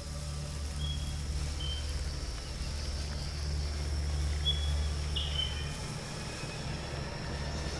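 Rainforest ambience: a steady high insect drone with four short, high bird whistles, over a steady low hum.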